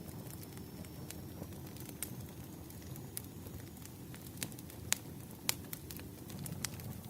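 Wood fire crackling: a steady low rush with frequent sharp pops and snaps, two of them louder about five and five and a half seconds in.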